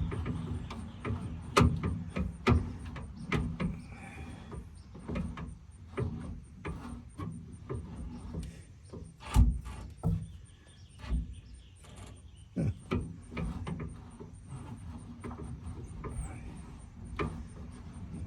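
Irregular metallic clicks and knocks from the spare-tire winch under a pickup truck as its unloaded cable is pulled out and the winch is worked by hand, with a few sharper clanks.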